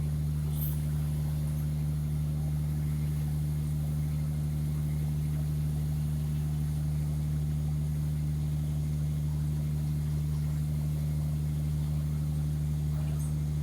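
Heavy diesel engine idling steadily with an even, low hum.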